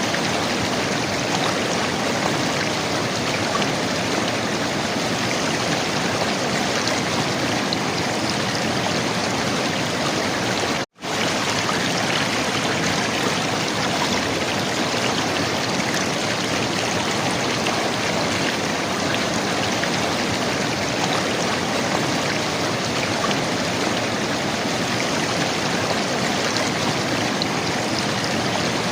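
River water flowing and gurgling as a steady rush, with a momentary dropout to silence about eleven seconds in.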